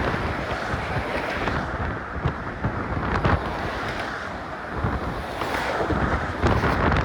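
Strong wind buffeting a cell phone's microphone: a continuous rushing noise that swells in gusts, loudest about three seconds in and again near the end.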